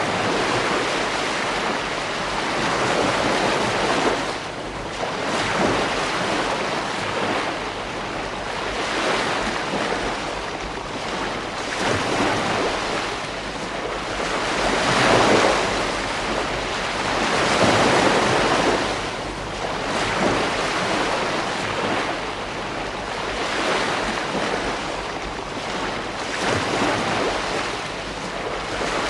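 Ocean waves breaking and washing on a beach, surging and easing every few seconds in a steady rush of surf, with wind on the microphone.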